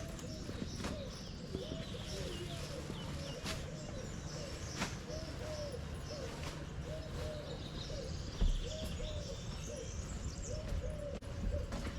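Small birds chirping and trilling, over a regular squeak about twice a second at walking pace.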